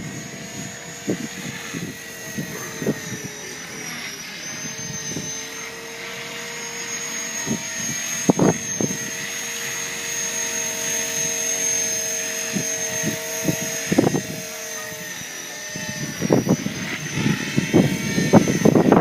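Blade 450 3D electric RC helicopter flying, its motor and rotor whine holding steady and shifting slightly in pitch as it manoeuvres. Wind gusts buffet the microphone with frequent low thumps, heaviest near the end.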